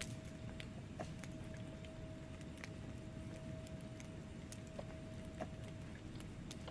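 Wood fire burning in a fireplace: a steady low rumble of flames with irregular sharp crackles and pops from the logs, several a second, and a faint steady tone underneath.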